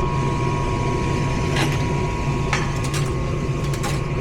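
Attic gas furnace running with a steady low hum and a constant thin whine, with a few light clicks. This is a no-heat unit the tech suspects of a flame sensor fault, because he heard its burner go out.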